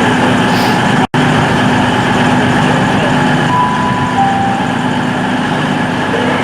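Diesel engines of a Class 220 Voyager idling steadily at the platform, a low even hum with a brief dropout about a second in. Two short tones sound in the middle, the second lower than the first.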